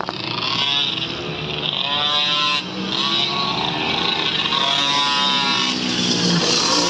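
Pit bike engines revving, the pitch rising and falling again several times, with a brief drop about two and a half seconds in.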